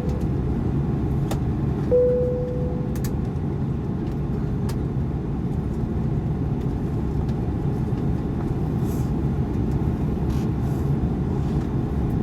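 Steady low roar of airflow and engines inside the cabin of a Hawaiian Airlines Airbus A330-200 in flight, with a single cabin chime ringing about two seconds in and fading over about a second.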